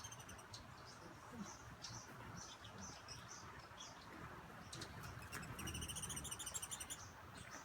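Hummingbirds chipping: faint, scattered short high chirps, and about five seconds in a rapid run of high, evenly spaced chirps lasting over a second.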